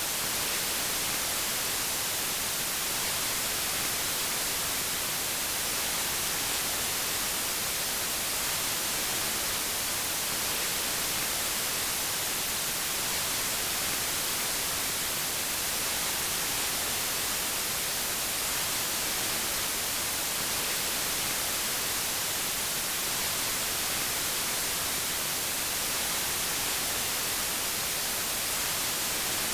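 Steady white noise: an even, unbroken hiss, brightest in the high end, with no change in level.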